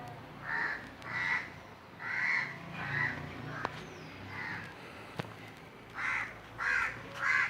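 Crows cawing, a string of about nine short harsh caws, some coming in pairs.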